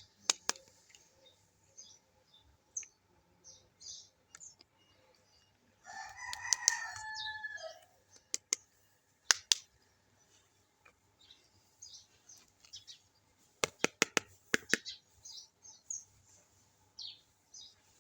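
Small plastic toy kitchen pieces being handled, with scattered clicks and taps and a quick cluster of clicks now and then. A pitched, wavering call lasts about two seconds in the middle.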